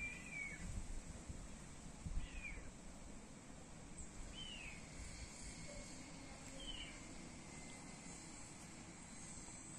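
A bird calling faintly: four short, arched chirps about two seconds apart, over a low rumble that is strongest in the first two seconds.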